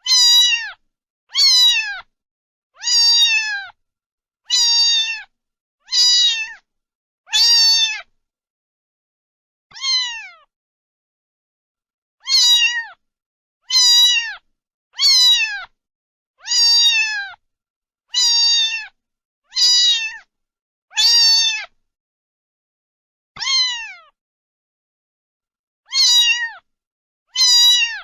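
A domestic cat meowing over and over, about seventeen short meows that each fall in pitch, mostly one every second and a half, with a few longer pauses between them.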